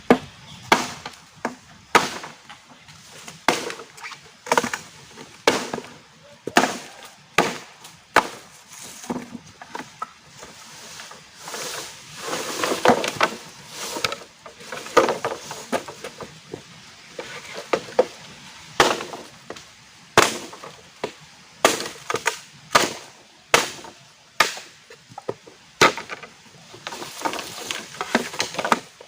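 Wood being chopped with a blade: a series of sharp, regular strikes about once a second, with a stretch of rustling and splitting about halfway through.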